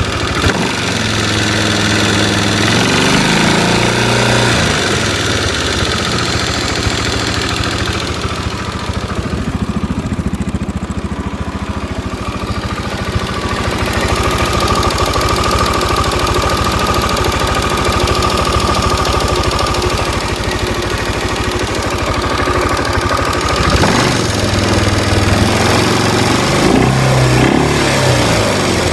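CF Moto 500 engine running warm at idle with a clicking knock, briefly revved near the start and again near the end. The owner says the clicking is barely there cold and appears once the engine warms, and doubts it is a valve, suspecting the crankshaft.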